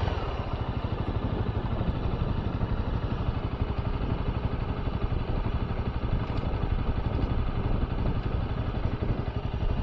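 Honda CB250R's single-cylinder engine idling steadily with an even, fast low pulse.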